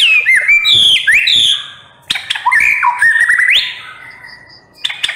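White-rumped shama singing loud whistled phrases full of quick up-and-down glides, in bursts about a second and a half long with short pauses between, a new phrase starting near the end.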